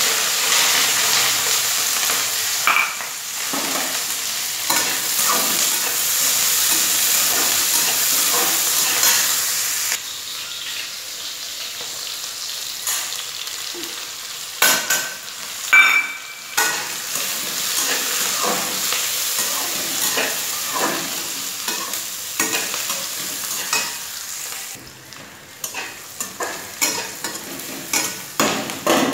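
Chopped onions, green chillies and tomato sizzling in hot oil in a metal kadai, loud at first and quieter after about ten seconds. A metal spatula scrapes and clinks against the pan as they are stirred, more often in the second half.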